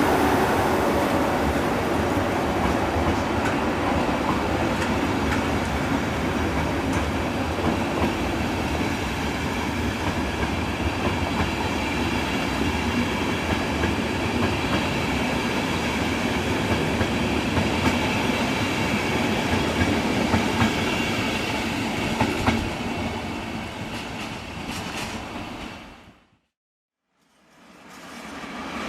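A train running past on the tracks, its wheels clacking over the rail joints, steady for most of the stretch. About 26 seconds in the sound drops to silence, and another train sound rises near the end.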